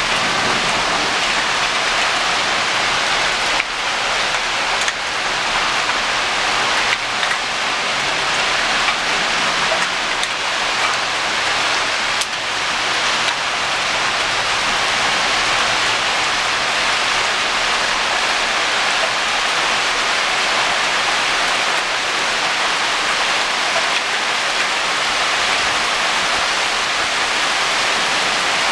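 Heavy rain pouring steadily during a thunderstorm, with a few sharper clicks of drops striking close by.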